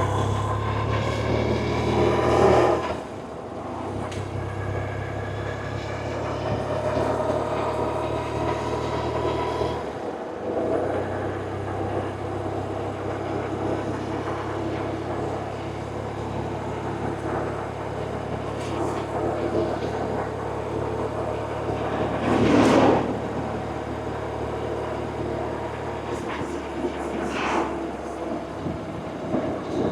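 BMW R1100RT's 1,085 cc air/oil-cooled boxer twin running under way. It pulls up through the revs for the first couple of seconds, drops back, then settles into a steady cruising beat. Two brief louder whooshes sound in the last third.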